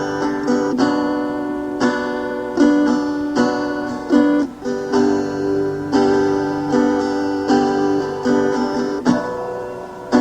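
Guitar strumming chords in an instrumental break of a song, a fresh strum a little under once a second with the chords ringing between.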